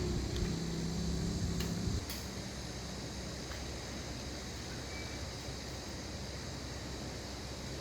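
Small RC car engine running, then cutting off about two seconds in, leaving a steady low background hum with a few faint ticks.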